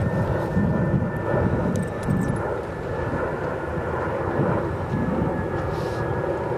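Steady engine drone with a thin, high steady whine over it, its low end swelling unevenly.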